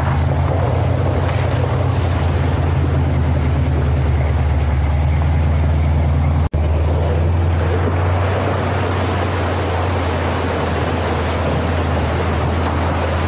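Pickup truck driving on a rough back road, heard from inside the cab: a steady low engine and road rumble with road and wind noise over it.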